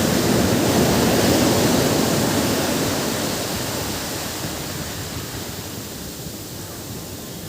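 Ocean surf breaking on a beach: a wave's rushing wash, loudest at the start and fading gradually as it recedes.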